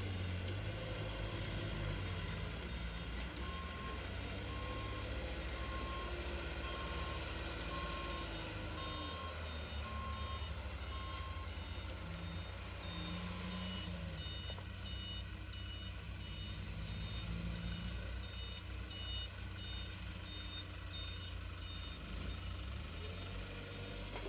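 Truck engine running with a reversing alarm beeping about once a second for several seconds; later a second, higher-pitched beeping alarm in a different pattern takes over.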